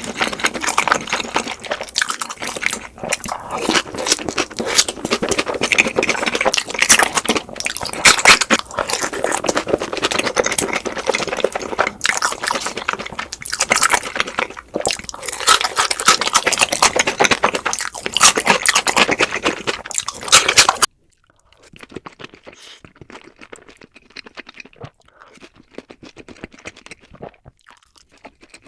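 Close-miked crunching and chewing of sweet Korean fried chicken, played at double speed. About 21 seconds in it cuts abruptly to a much quieter stretch of softer, sparser chewing.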